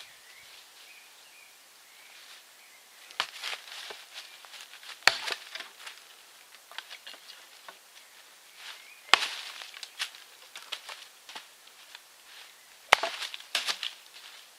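Wood fire in a fireplace crackling, with irregular loud pops about five, nine and thirteen seconds in, each followed by a spray of small crackles.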